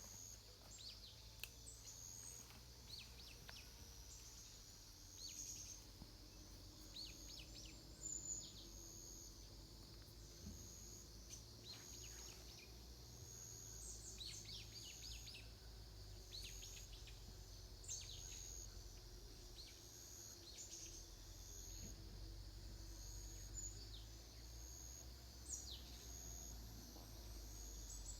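Faint outdoor ambience: small birds give short, quick chirps scattered throughout, over a low steady rumble.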